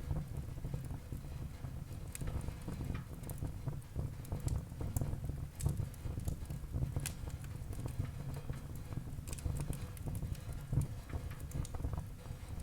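Wood fire burning in a fireplace, crackling with irregular sharp pops over a low, steady rumble of the flames.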